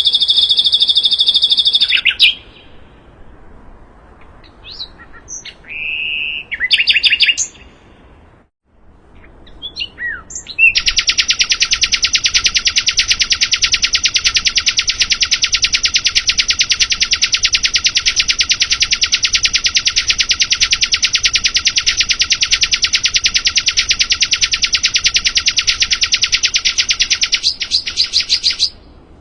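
A sikatan londo (flycatcher) singing: a few short chirps, then a long, very rapid, even trill of repeated high notes held for about eighteen seconds before it stops suddenly near the end.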